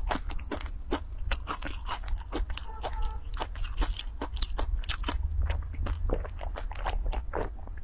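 Close-miked crunching and chewing of crunchy dry ramen-ball snacks: a dense, irregular run of crisp crunches, several a second.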